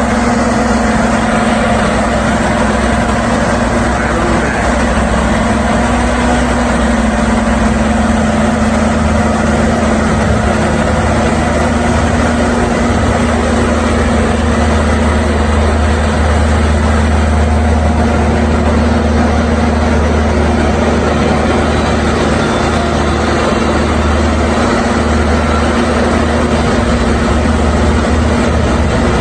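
A large engine running steadily at idle, a constant low hum and rumble with no change in speed.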